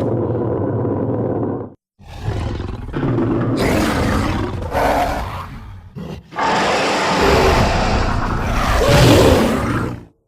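Designed giant big-cat monster roars, layered from lion, tiger, leopard and sabre-tooth cat recordings: three long, deep roars with short breaks between them, the last one the loudest.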